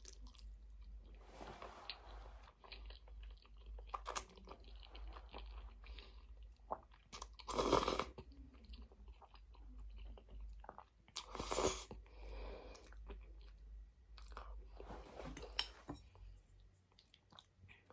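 Close-miked eating sounds of a person chewing a mouthful of spaghetti: irregular wet clicks and smacks of chewing, with two louder bursts about eight and eleven and a half seconds in.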